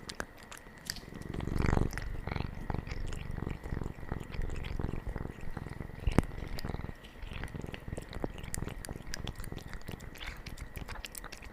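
Domestic cat purring, a steady low rumble, with scattered small clicks and a sharp click about six seconds in.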